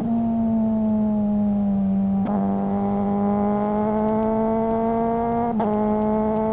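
Suzuki GSR600's inline-four engine through a GPR Ghost exhaust, pulling at high revs with the pitch creeping up. Three short cracks break the note, about two to three seconds apart, where the quickshifter cuts in for a gear change.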